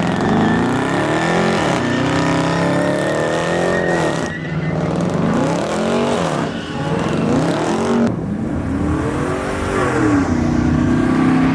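Truck engine revved up and down about five times in quick succession, then held steady near the end.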